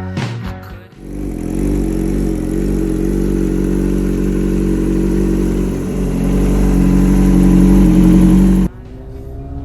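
Kawasaki 636 (ZX-6R) inline-four motorcycle engine running hard, growing steadily louder for several seconds before cutting off abruptly near the end.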